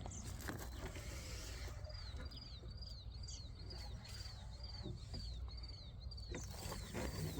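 A bird calling in a steady series of short, high, downslurred chirps, about two a second, starting about two seconds in, over a low rumble.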